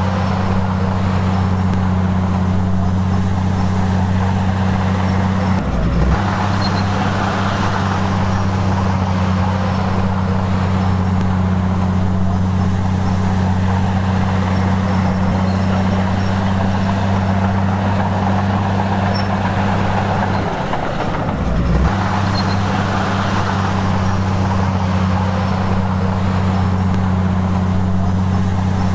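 Heavy earthmoving machine's diesel engine running with a steady low drone. Its note shifts briefly twice, about six seconds in and again around twenty-one seconds.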